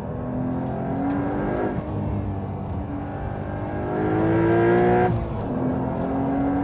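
Porsche 992.2 Carrera T TECHART TsportR's 3.0-litre twin-turbo flat-six accelerating hard through the manual gears, its pitch climbing with revs. It is loudest just before the pitch drops suddenly about five seconds in at an upshift, then it pulls again.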